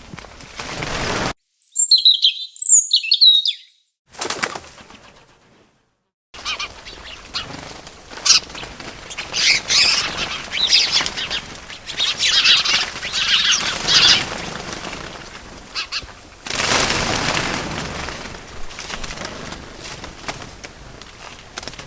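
Small birds chirping and flapping their wings. There are a few short gliding chirps, a brief hush, then a busy stretch of tweets over a fluttering rustle, and a louder rush of flapping about three quarters of the way through.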